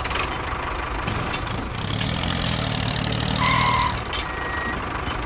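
Small motor of a miniature model construction vehicle running and humming, with short electronic beeps about three and a half seconds in.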